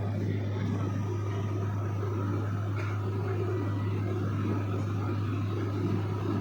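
Steady low drone of a small private airplane's engine and propeller, heard inside the cabin, with a strong constant hum.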